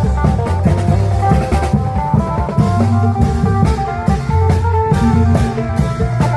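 Isan klong yao band music: a plucked phin lute melody over long drums and a drum kit, with a steady dance beat and a deep bass line.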